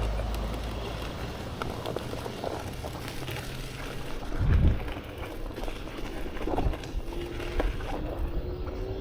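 Riding an electric unicycle, with a low rumble of wind and rolling over the path, a thump about four and a half seconds in, and a thin steady whine that starts about seven seconds in and rises slightly.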